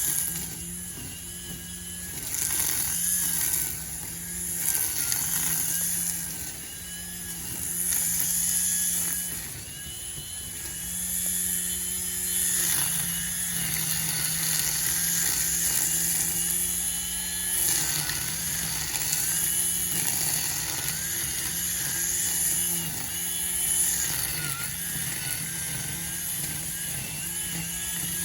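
String trimmer running at high speed, a steady high whine that swells and eases every few seconds as it cuts through grass.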